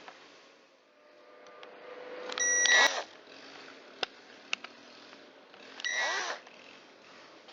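Cordless driver run in two short bursts, about two and a half and six seconds in, each a high whine that rises and falls as it drives a screw into the chainsaw's plastic housing, with a few sharp clicks of parts being handled between them.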